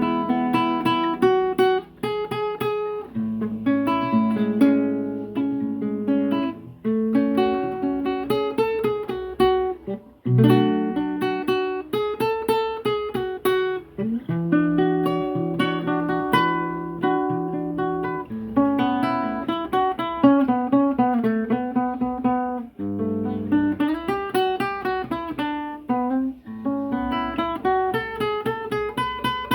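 Acoustic guitar played solo in an improvisation: a run of plucked notes and strummed chords, with a few brief pauses.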